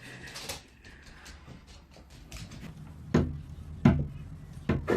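Faint shuffling, then four sharp knocks from about three seconds in, coming quicker towards the end.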